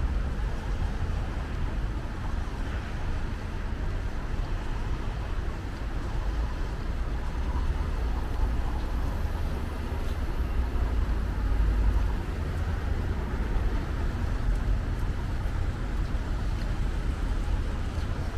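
Steady low rumble of city traffic, a continuous noise with no distinct events.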